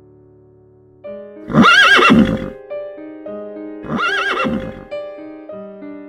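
A horse whinnying twice, each a quavering call about a second long, the second one some two and a half seconds after the first, over soft background music.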